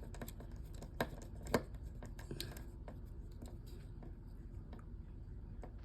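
Light clicks and taps of small smartphone parts and tools being handled and set down while a Samsung Galaxy S9 is reassembled, with two sharper clicks about a second and a second and a half in, then scattered faint ticks.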